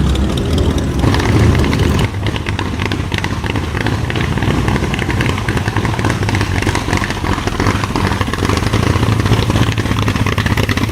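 Motor vehicle engine running with a steady low rumble, with an abrupt change in the sound about two seconds in.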